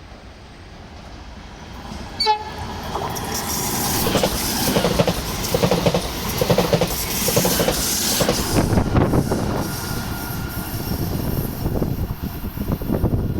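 RE 6 regional train approaching and passing. A brief horn blast sounds about two seconds in, then the train runs by with loud rumble and a rhythmic clatter of wheels over the rail joints.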